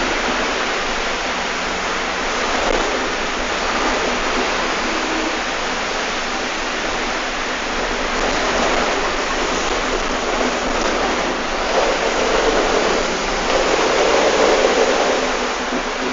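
Steady rushing cabin noise inside a moving Mercedes-Benz OF-1519 city bus, engine, road and rain noise blended together, swelling louder a few times in the second half.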